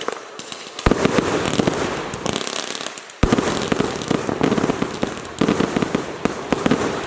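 Fireworks going off: two sharp bangs, about a second in and just past three seconds, each followed by a long run of rapid crackling.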